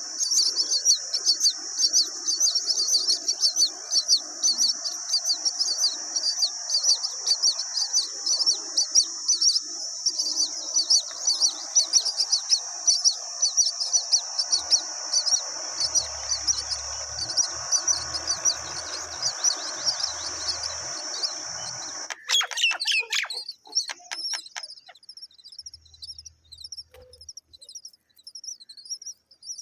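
Many birds chirping in a dense stream of quick, high, overlapping calls. About 22 seconds in the sound changes abruptly, and the chirping goes on thinner and sparser.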